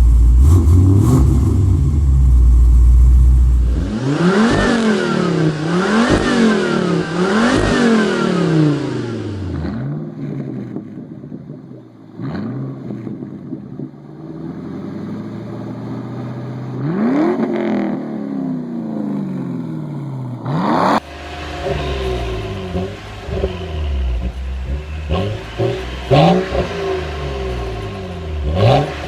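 Car engines with aftermarket exhausts, several different cars one after another: a deep idle rumble, then three quick revs in a row, later single revs with the engine falling back to idle between them.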